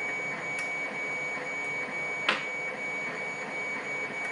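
Lock pick and tension wrench working the pins of a pin-tumbler challenge lock, with one sharp click a little past halfway through, over a steady hiss with a faint high whine.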